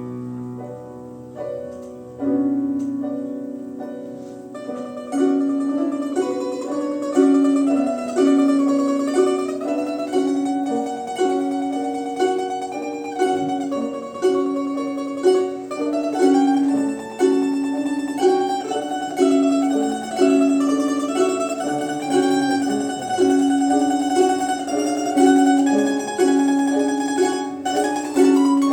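A domra quartet playing a melodic piece. It starts softly, and after about five seconds it grows fuller and louder with a steady, repeating rhythmic pattern.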